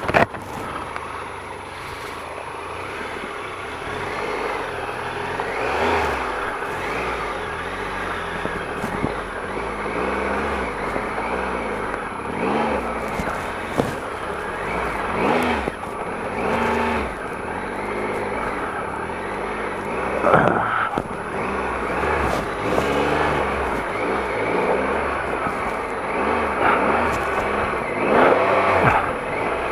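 Triumph Explorer XCa's 1215cc three-cylinder engine at low revs, repeatedly revving up and dropping back under short bursts of throttle as the bike works through deep mud ruts on road tyres.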